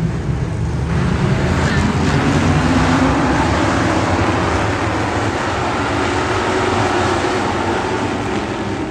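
Steady vehicle noise: engine and road noise with a continuous hiss.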